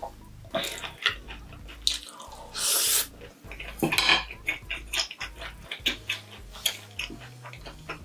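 Close-miked chewing of a mouthful of mayonnaise corn cheese: many small wet mouth clicks and smacks, broken by a few short puffs of breath. A wooden spoon is set down on a plate.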